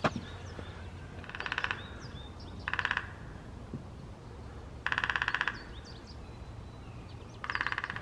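A bird making four short, harsh, rattling bursts, spaced one to three seconds apart, with faint high chirps of small birds between them.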